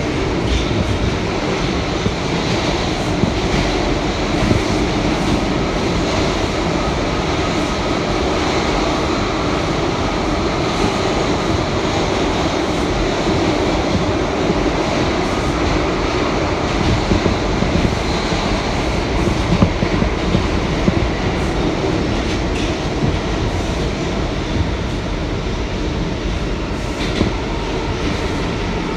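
An R179 subway train running on the rails, heard from inside the car: a steady rumble and rush of wheel and rail noise, with occasional sharp clicks.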